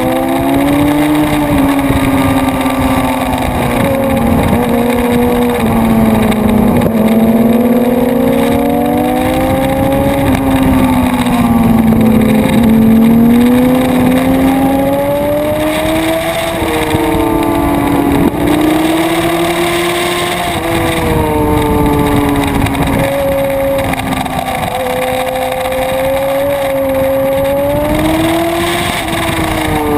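Sport motorcycle engine pulling hard at high revs, heard from the bike itself. Its pitch climbs under acceleration and drops away repeatedly as the rider rolls off and shifts for corners.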